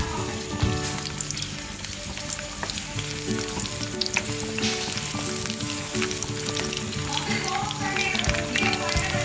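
Small onions (shallots) sizzling as they sauté in hot oil in a nonstick pan, with a wooden spatula scraping and clicking against the pan as they are stirred.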